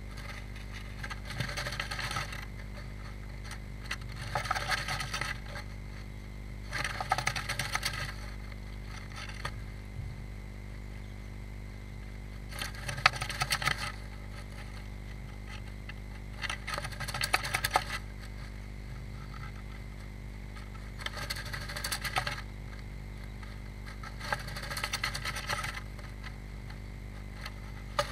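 A small tit shuffling and scratching in the nest material inside a nest box: bouts of scratchy rustling about a second long, every three to four seconds, over a steady low electrical hum.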